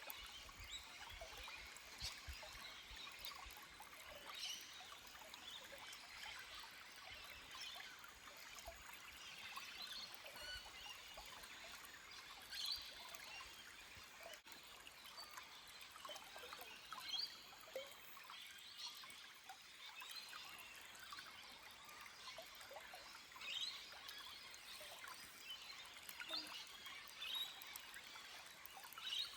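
A small forest stream trickling over rocks, with birds chirping on and off.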